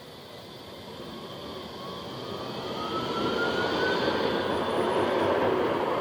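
A tram approaching and growing louder, with a thin whine rising in pitch about two seconds in.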